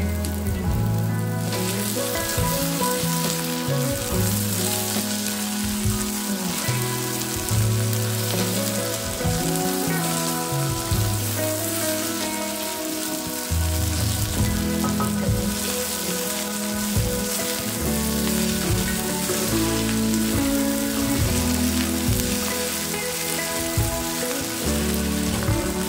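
Chopped onion and okra sizzling in hot oil in a pan, stirred with a spatula, the sizzle strengthening about a second and a half in. Background music with held low notes plays underneath.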